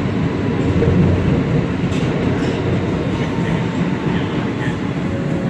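New York City subway Q train running on the new Second Avenue Subway line, heard from inside the car: a steady low rumble of wheels on rail.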